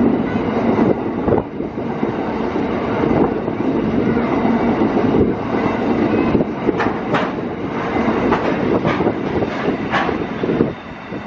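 An empty coal train's hopper wagons rolling past on the rails, giving a steady heavy rumble of wheels on track. A few sharp clanks come in the second half, and the noise falls away near the end as the last wagon goes by.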